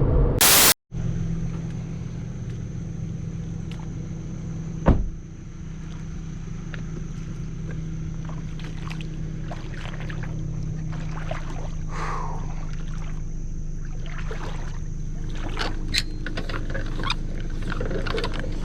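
Kayak on a creek: a steady low hum with a thin steady high tone over it, a single thump about five seconds in, and scattered light knocks and clicks of gear being handled later on. A brief loud burst about half a second in cuts off abruptly.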